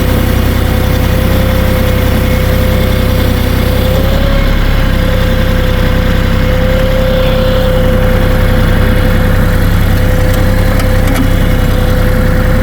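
Kioti 3520 HST compact tractor's diesel engine running steadily while it pushes and grades slush, with a steady high whine over the engine drone. The engine note shifts slightly about four seconds in.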